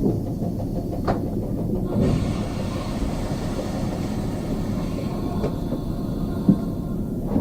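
SŽ series 813 diesel railcar running along the track, heard from the cab as a steady low rumble. A handful of short clanks from the wheels over the rails cut through it, the loudest one near the end.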